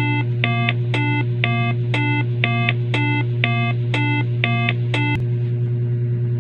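Electronic beeps alternating between two pitches, about two a second, stopping about five seconds in, over a loud steady low hum.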